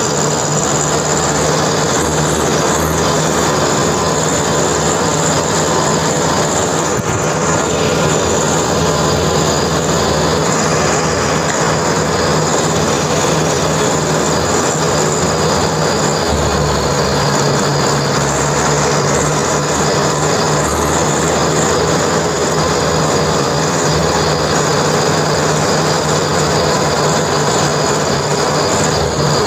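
Tractor engine running steadily under load, a constant loud engine drone with a steady low hum.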